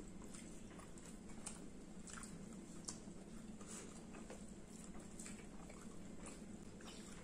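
Faint chewing and small wet mouth clicks of people eating rice and saucy fried dishes by hand, scattered irregularly over a steady low hum.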